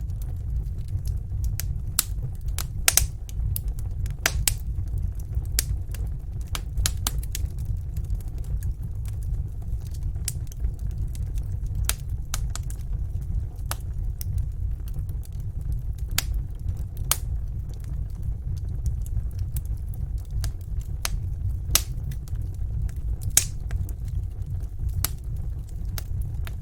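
Fire in a fireplace crackling: irregular sharp pops and snaps, several a second at times, over a steady low rumble of the flames.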